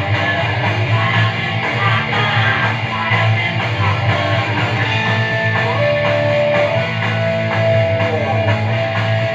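Loud rock song with electric guitars. About halfway through, a long held high note comes in and dips briefly in pitch near the end before returning.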